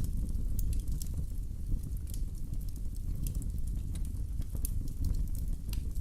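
Wood fire in a fireplace crackling, with scattered sharp pops over a steady low rumble of the flames.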